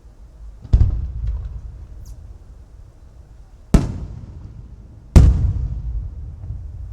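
Aerial firework shells bursting: three loud booms, the first under a second in, the others near four and past five seconds, each rolling away in a long low rumble, with a few faint crackles after the first.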